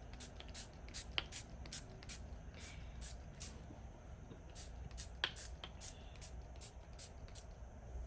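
Leave-in conditioner spray bottle being pumped onto hair, a quick run of short, faint hissing squirts at an irregular pace, about two or three a second.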